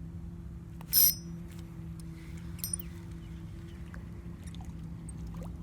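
A small metal bell or similar metal object chimes sharply about a second in and again more faintly a little later, over a steady low hum.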